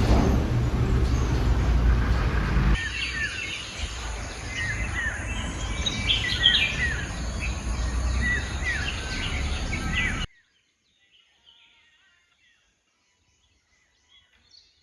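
Birds chirping repeatedly over a low outdoor rumble, after a loud rushing noise in the first few seconds. The sound cuts off abruptly about ten seconds in, leaving near silence with a few faint bird calls.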